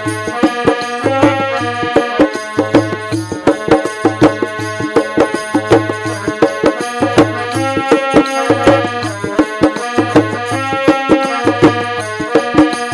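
Instrumental interlude of a devotional bhajan: a melody instrument plays held, stepping notes over a fast, steady hand-drum rhythm, with a deep drum note recurring regularly.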